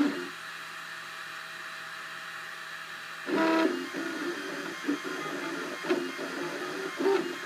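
Cubify 3D printer's stepper motors whining as the print head and axes move. A steadier, quieter tone holds for about three seconds, then a louder burst comes, followed by a run of short tones that change pitch with each move.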